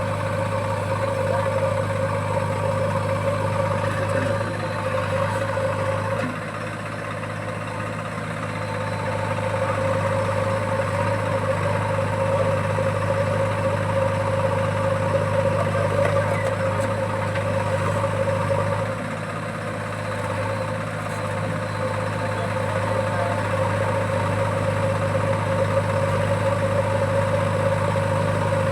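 Diesel engine of earth-moving machinery running steadily with a constant hum, dropping briefly in loudness twice.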